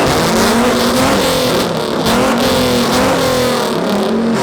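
Two cars revving their exhausts at the same time, the engine notes climbing and falling over and over.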